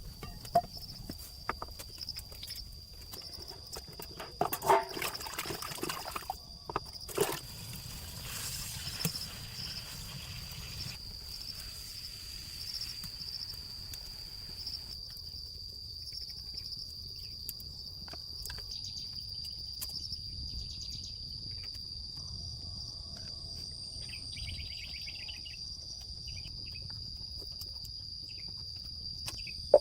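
Crickets trilling steadily in one unbroken high-pitched note. In the first seven seconds a few sharp knocks and a short stretch of rustling cut in over it, the loudest about four to five seconds in.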